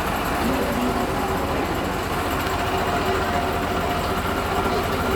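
Train engine running steadily, a continuous low rumble with faint steady tones.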